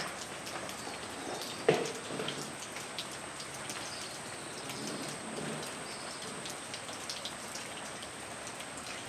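Rain falling steadily, with scattered drops tapping on surfaces and one sharp knock a little under two seconds in.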